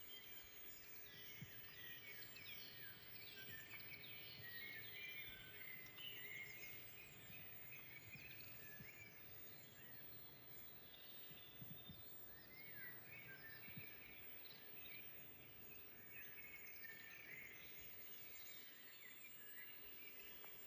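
Faint chorus of forest songbirds, many short chirps and trills overlapping over a soft background hiss, busiest in the first few seconds and again in the later part.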